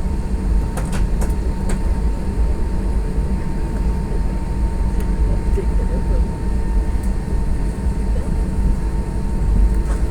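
Steady low rumble of cabin noise inside an Airbus A320 on the ground with its engines running, with a thin steady whine and a few faint clicks.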